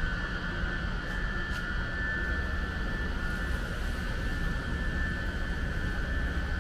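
Steady low rumbling roar with a thin, steady high whine.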